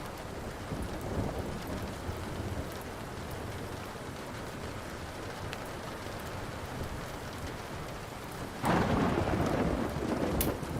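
Steady rain with thunder: a low rumble swells about a second in, then a sudden loud thunderclap breaks about eight and a half seconds in and rolls for about two seconds.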